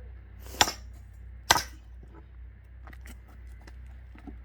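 Axe striking upright firewood logs: two sharp cracks about a second apart, then a few faint knocks of wood.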